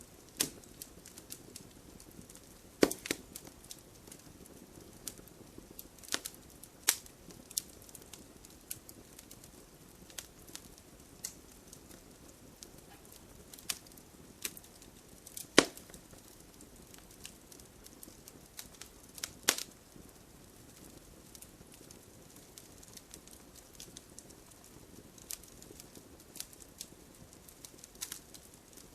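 Burning logs in a wood fire crackling: irregular sharp snaps and pops over a faint steady hiss, with a few louder pops scattered through.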